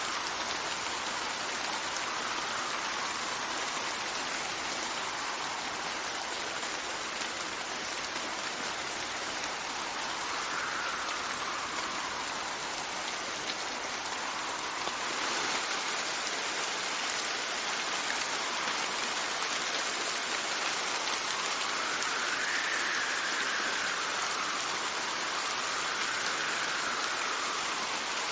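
Steady rain falling, with wind gusts swelling and easing every few seconds.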